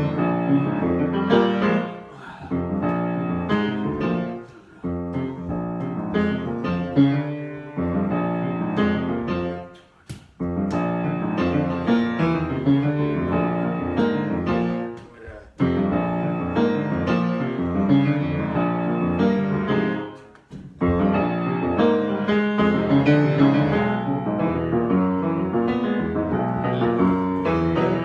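Solo piano improvisation: dense chords and melodic lines, broken by several brief pauses between phrases.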